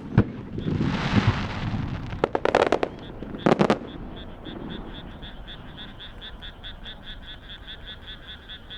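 Fireworks bursting and crackling overhead in several clusters over the first four seconds. A frog calls throughout in a fast, even series of high pulses, about four or five a second, and is left alone once the bursts stop.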